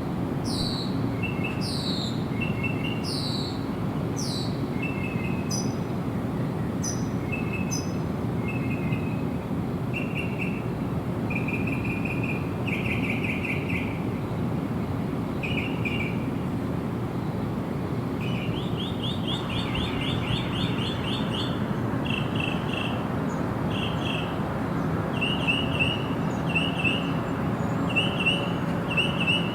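Birds singing over a steady low rushing background noise. A run of high whistles, each sliding downward, comes about once a second at the start, then repeated short chirped notes, with a fast trill near the middle.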